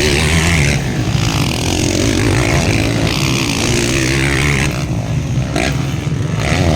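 Motocross dirt bike engines running and revving during the race, their pitch rising and falling.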